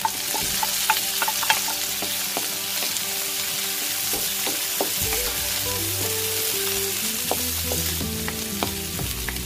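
Chopped onion, garlic, ginger and green chili sizzling in hot oil in a wok, stirred with a wooden spatula that clicks against the pan now and then, most often in the first second or two.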